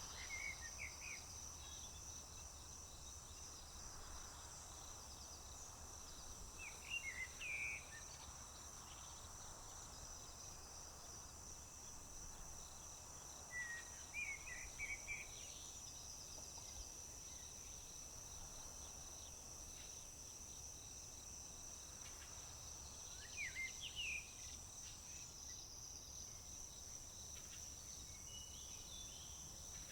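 Crickets trilling steadily in a continuous high chorus, with a songbird singing a short phrase about every seven to ten seconds, five times in all.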